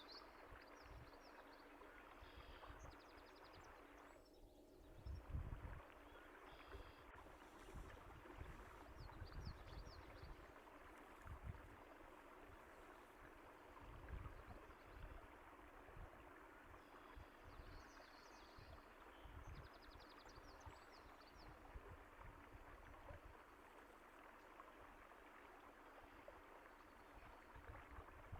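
Faint, steady rush of flowing water with irregular low gurgles and splashes. Short, high bird chirps come in now and then over it.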